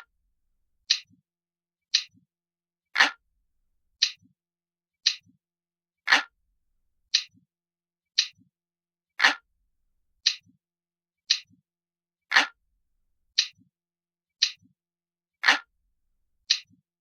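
Ticking clock sound, one sharp tick about every second, with every third tick louder and fuller.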